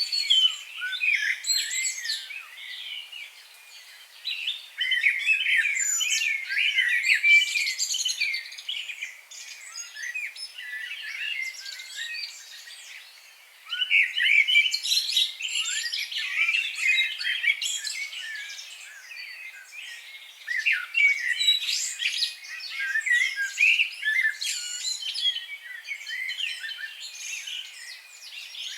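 Several birds singing and chirping at once in a dense chorus of quick, high-pitched twitters and trills, in loud bouts with short lulls.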